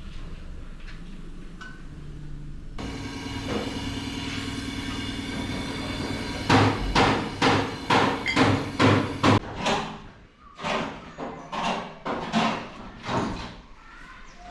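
A steady hum starts about three seconds in, then a run of hammer blows on metal, about two a second, loud at first and weakening over the last few seconds.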